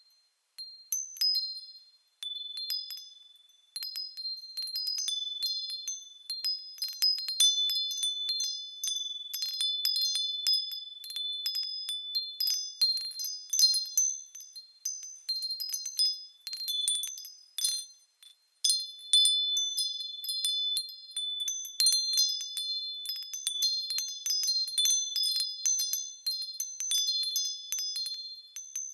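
Small high-pitched bells swinging and ringing in irregular, overlapping strikes on a few fixed notes, with short pauses near the start and about two-thirds of the way through.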